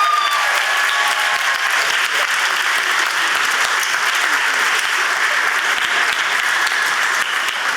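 Theater audience applauding steadily, with a few cheering shouts in the first second.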